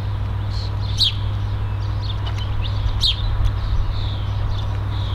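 A small bird repeating a sharp, falling chirp every second or two over a steady low hum.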